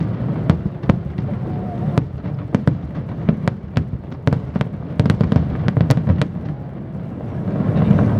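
Fireworks display: a rapid string of sharp bangs and cracks, two or three a second, over a low rumble that swells near the end.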